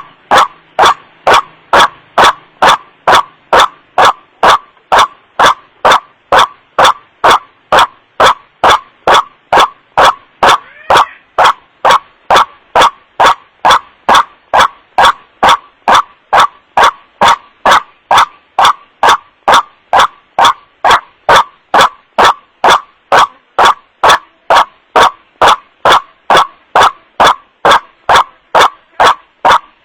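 White-breasted waterhen's 'wak' call played as a bird-luring recording: short, loud, distorted notes repeated evenly, about three every two seconds.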